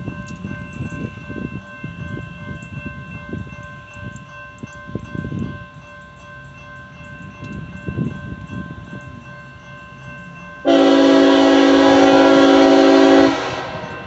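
Grade crossing bell ringing steadily over the rumble of a CSX freight train; about ten and a half seconds in, the locomotive's air horn sounds one long blast of about two and a half seconds, much the loudest sound.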